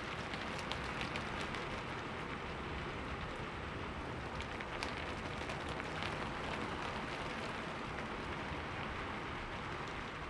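Steady rain falling on a window, an even hiss with scattered individual drops ticking sharply on the glass.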